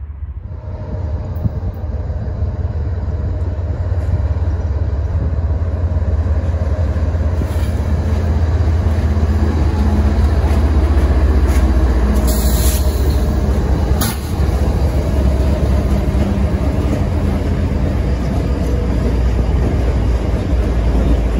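Diesel locomotives of a CSX freight train approaching and passing close by. The low engine rumble builds over the first several seconds, then stays loud as the lead units go by and tank cars follow. There is a brief high-pitched burst about twelve seconds in and a sharp crack about two seconds later.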